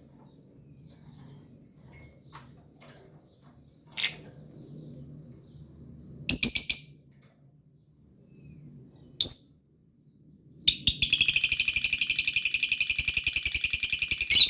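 Lovebirds calling: a few short shrill chirps about four, six and nine seconds in, then from near eleven seconds a long, fast, evenly pulsed chatter that is the loudest part.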